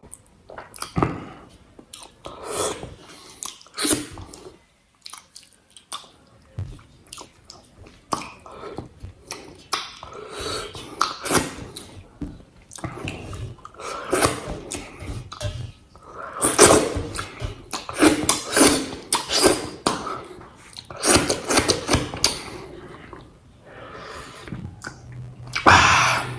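Close-miked eating of a meal of rice, egg curry and papad: irregular chewing and mouth sounds with short crisp crackles, in clusters that get louder in the second half.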